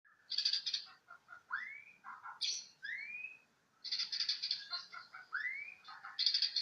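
A young songbird of the kind Indonesian bird keepers call a bahorok, chirping. It gives buzzy, rattling bursts between short rising whistled notes and soft chips.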